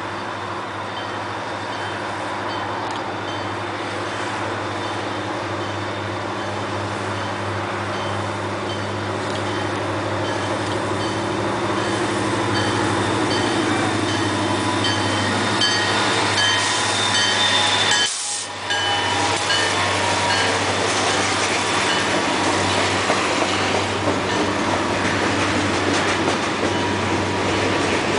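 EMD GP40-2 diesel locomotive, a turbocharged 16-cylinder EMD 645 engine, working under power as it approaches and passes, growing steadily louder. Its road slug and freight cars follow, rolling by with wheel clatter, and the sound drops out for a moment about two-thirds of the way through.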